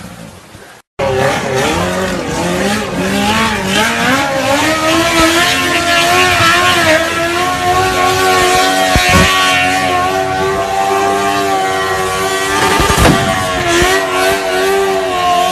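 Loud vehicle engine at high revs, its pitch climbing over several seconds and then holding high and wavering slightly, with a couple of brief louder spikes.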